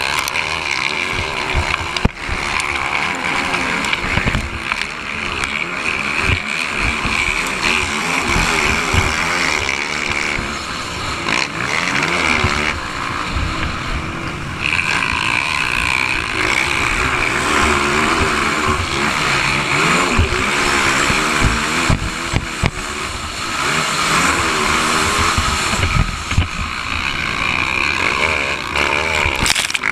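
Motocross dirt bike engines revving, their pitch rising and falling again and again.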